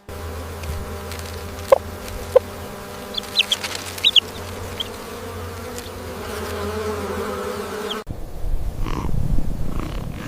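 A steady low buzzing hum with a few short high chirps a little after three seconds in. About eight seconds in it cuts abruptly to a different, lower rumbling sound.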